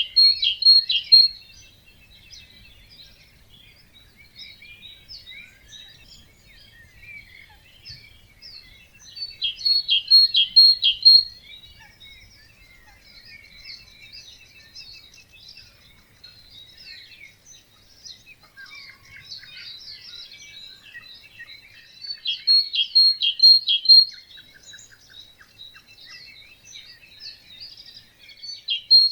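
Dawn chorus of several songbirds singing and chirping together. One bird repeats a louder song of about two seconds, a quick series of notes, near the start, about ten seconds in and again around twenty-two seconds in.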